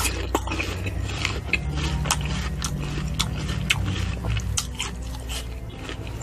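A person biting and chewing crisp, raw white-fleshed fruit: a quick, irregular run of wet crunches and mouth clicks.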